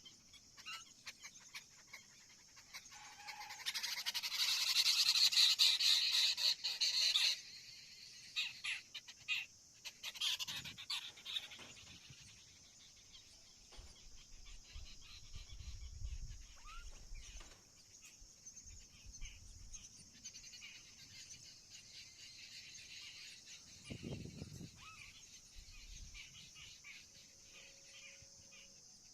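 Birds calling outdoors over a steady high hiss, with a loud, harsh chattering call lasting about three seconds a few seconds in, then scattered shorter calls and a few low bumps.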